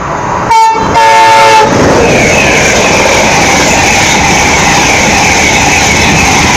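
Express passenger train's horn sounding a short note and then a longer one, followed by the train passing at speed through the station with loud, continuous rushing and rumbling of wheels on rail.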